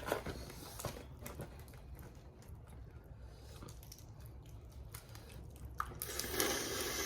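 Crawfish being peeled and eaten close to the microphone: small clicks of shell cracking and chewing, then a louder noise lasting about a second near the end.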